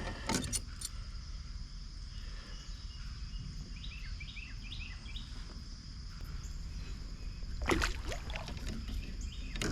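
Outdoor creek ambience from a kayak: a steady high insect drone over a low rumble, a short run of small bird chirps about four seconds in, and a brief knocking clatter near eight seconds, the loudest moment, with a smaller one near the end.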